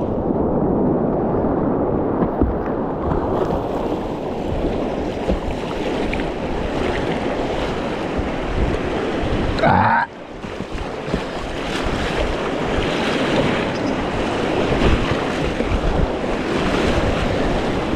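Rushing creek water and wind noise on a GoPro microphone during a kayak run, a steady noisy wash. Just before ten seconds in there is a brief rising tone, and then the sound suddenly drops in level before building back up.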